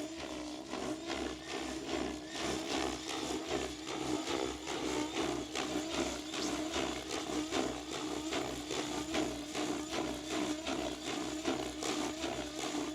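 SAB Goblin Kraken 700 electric RC helicopter in flight: a steady rotor and motor whine, with gusty wind buffeting the microphone.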